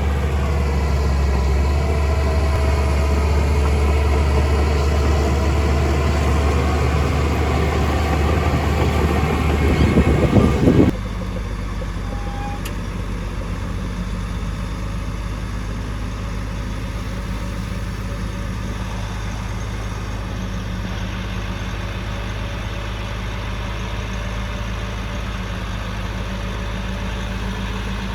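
Heavy construction machine's engine running hard with a deep rumble, growing louder shortly before an abrupt cut about eleven seconds in, after which a steadier, quieter engine idles.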